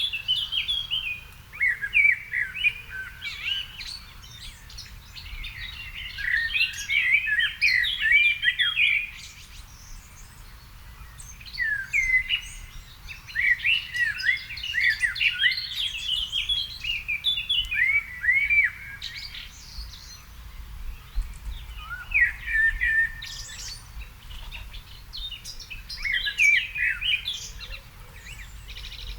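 Garden songbirds singing in repeated warbling phrases of one to three seconds, with short pauses between phrases.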